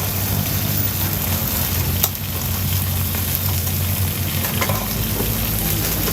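Food sizzling as it fries in hot oil, a steady hiss over a low steady hum, with one sharp click about two seconds in.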